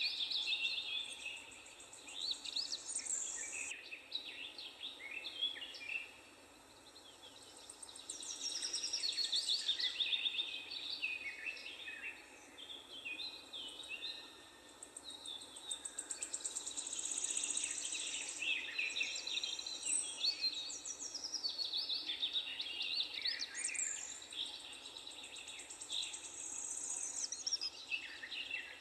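Several songbirds singing in a park, a dense overlap of high chirps and quick trilled phrases that thins out briefly a few times, over a faint steady background hiss.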